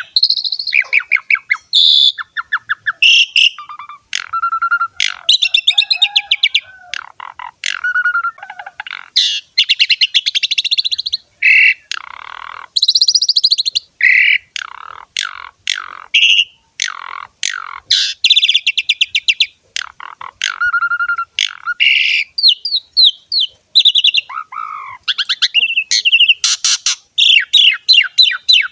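Asian pied starling (jalak suren) singing a long, varied song: rapid chattering runs of ticks, clear whistles and sliding notes following one another with only short pauses.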